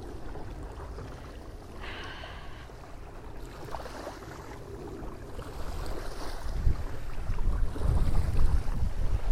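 Wind buffeting a phone microphone, a low rumbling gust noise that gets much stronger about two-thirds of the way in.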